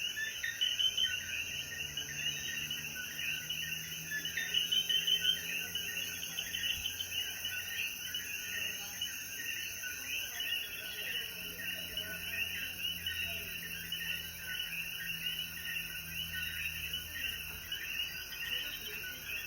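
Dense night chorus of coquí frogs, many short overlapping calls running on without a break.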